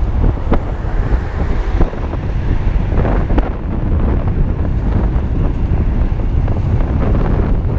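Wind buffeting the microphone of a moving electric bike, a heavy steady rumble, with a few scattered light clicks.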